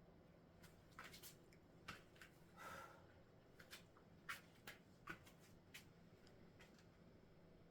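Near silence with a few faint, scattered clicks and one soft breath-like swish about three seconds in.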